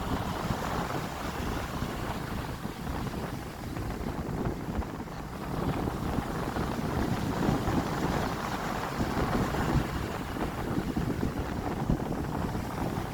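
Stormy sea surf, waves breaking and washing in a continuous rumble that swells and eases, with wind buffeting the microphone.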